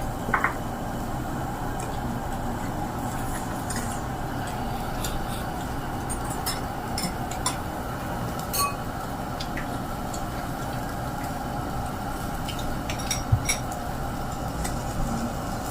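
Scattered light clinks and clicks of dishes and cutlery over a steady low hum.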